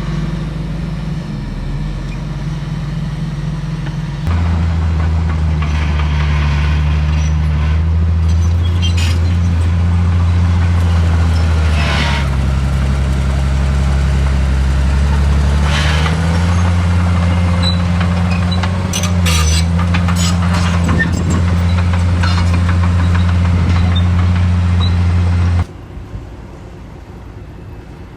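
Heavy diesel engine of earthmoving machinery running hard, its pitch rising and falling as it works. There are scattered clanks and scrapes in the middle. The sound gets louder about four seconds in and drops off abruptly near the end.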